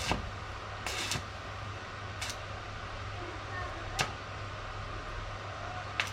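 Electric arc welder striking a series of short tack welds on steel plate: brief crackling bursts a second or two apart, one sharp click about four seconds in, over a steady electrical hum.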